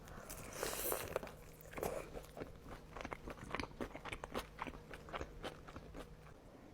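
Close-miked mouth sounds of a person eating sushi: a loud bite about half a second in, then chewing with many short, crisp clicks that thin out near the end.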